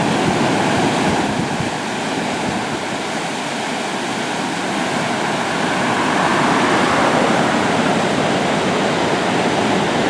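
Floodwater pouring over a mill dam: a loud, steady rush of water.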